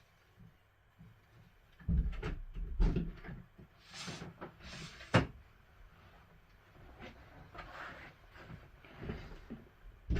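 Handling noises from hands at work: a few dull knocks about two to three seconds in, rustling after that, and a single sharp click a little after five seconds.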